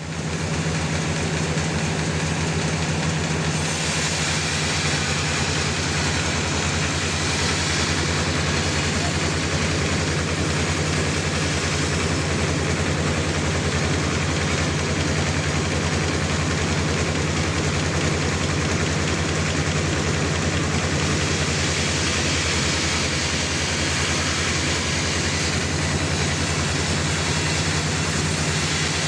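Sawmill engine running steadily with a low hum and a constant hiss over it; a brighter hiss joins about three and a half seconds in.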